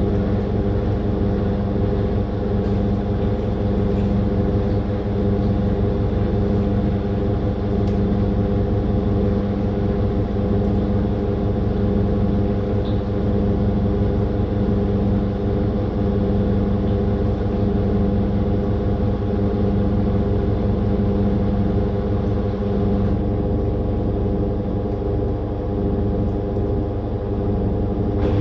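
Living & Co 5.5 kg top-loading washing machine spinning: a steady motor hum over a low rumble from the drum.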